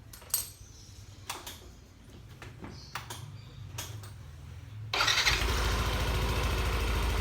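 A few clicks and knocks, then about five seconds in a Yamaha NMAX scooter's single-cylinder engine starts and settles into a steady idle. Its AHRS racing exhaust, packed with a stainless-steel dish scrubber as a makeshift dB killer, sounds like a stock exhaust.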